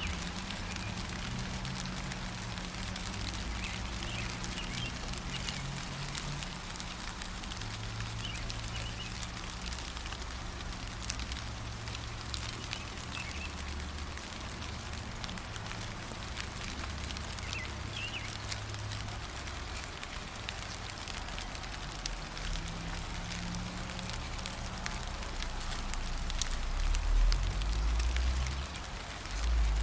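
Steady gentle rain with drops pattering and dripping close by, and a few short bird chirps now and then. A low rumble underneath grows louder near the end.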